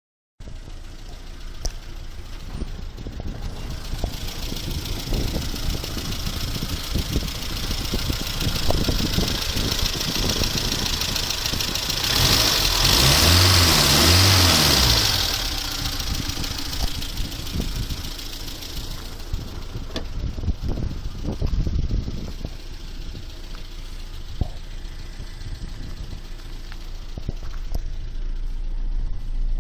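Simca 1301's four-cylinder engine idling steadily, revved up and back down for a few seconds about halfway through.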